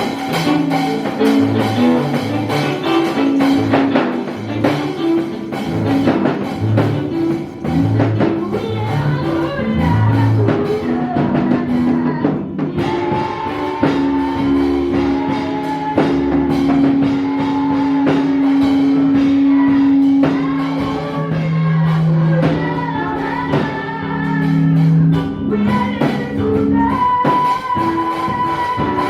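Band music with a bass line, guitar and drum kit, and singing over it, as praise music at a church service.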